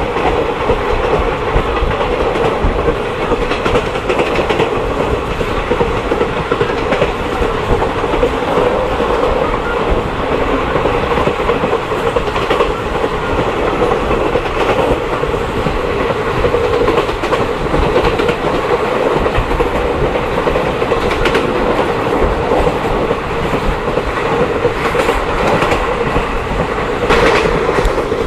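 Passenger train running along the track: a steady, loud rumble of wheels on the rails, with a few louder clatters near the end.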